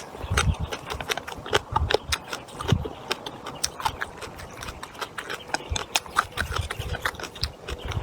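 Close-miked eating sounds: wet chewing and lip smacking, an irregular run of many quick clicks with soft low thumps as the food is worked in the mouth.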